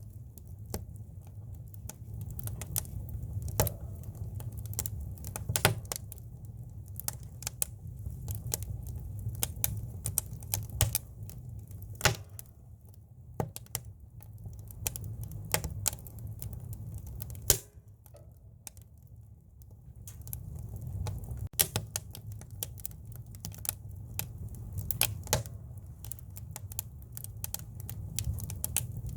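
Campfire of split firewood burning, crackling with irregular sharp pops and snaps over a steady low rumble of the flames.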